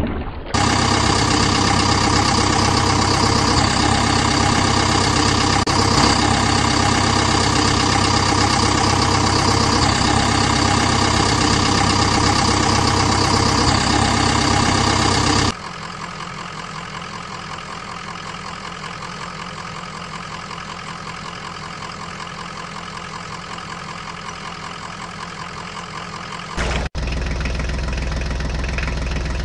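Engine sound effect of a vehicle engine idling steadily. It drops abruptly to a quieter idle about halfway through and steps up louder again near the end.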